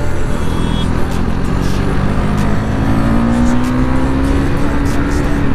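Motorcycle engine under acceleration, its pitch climbing steadily through the gear and falling away at the very end, over the constant rumble of riding.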